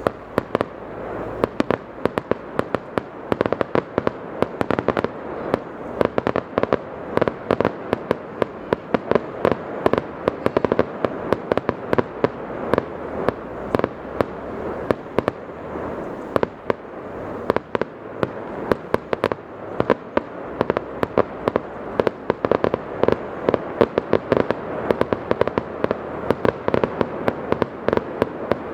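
Fireworks display going off: a continuous run of sharp bangs and pops, several a second, over a steady din of reports.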